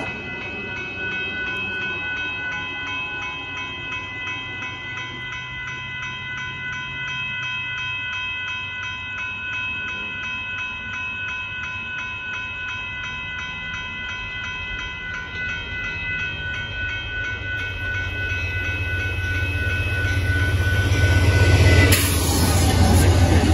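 Railroad crossing bell ringing steadily while an Amtrak passenger train approaches, its horn sounding faintly in the distance in several long blasts. Near the end the diesel locomotive's low rumble swells loudly as it reaches the crossing.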